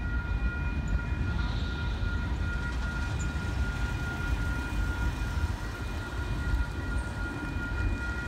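Freight train cars rolling past at a level crossing: a steady low rumble of wheels on rail, with a steady high ringing tone held over it.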